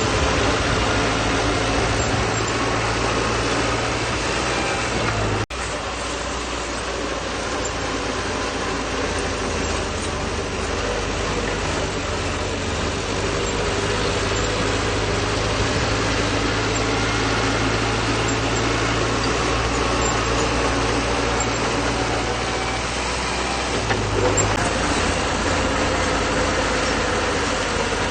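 Diesel engine of a bulldozer running steadily under work, with a brief sudden drop about five and a half seconds in.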